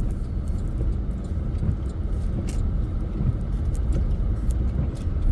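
Steady low rumble of a truck running, engine and road noise heard from inside the cab.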